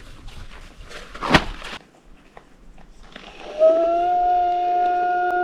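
Rustling and crinkling with one sharp crackle, then a loud, steady whistling tone that starts with a slight upward slide and holds for about two seconds.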